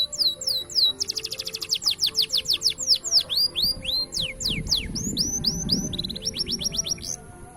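Green canary singing in fast rolls of repeated falling whistled notes and quick trills, breaking off about seven seconds in, over soft background music. A low rumbling noise comes in around the middle.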